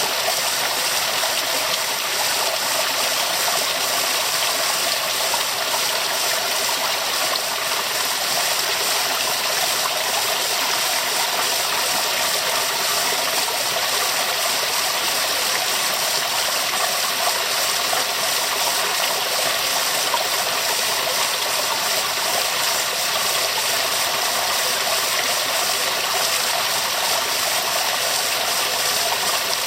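Waterfall: water pouring and splashing in a steady, unchanging rush, with most of its hiss in the middle and upper range.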